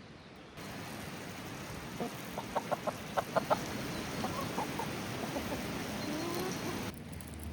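A chicken clucking, with a quick run of about six short clucks around the middle, over a steady rush of flowing water.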